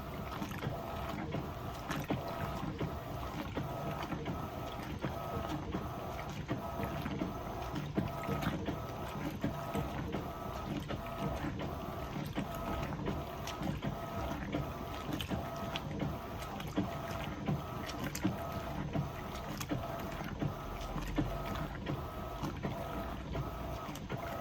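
Electrolux LPE16 top-load washing machine working through a heavy load of two queen duvets on its heavy program. The motor whine pulses in an even rhythm, about once every three-quarters of a second, over a low rumble, with scattered clicks.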